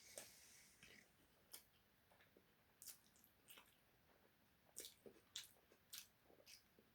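Faint chewing and wet mouth smacks of someone eating a juicy loaded beef taco: a dozen or so irregular clicks, thickest about five seconds in.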